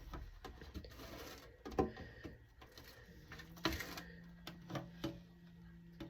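Scattered light knocks and clicks of items and plastic fridge parts being handled during cleaning, with a low steady hum coming in about halfway through.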